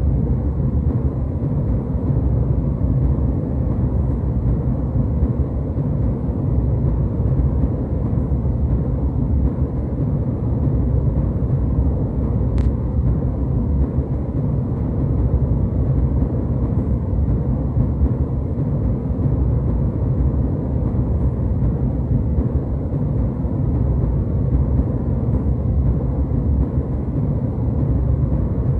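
Jet airliner cabin noise: a steady, even rumble heavy in the low end.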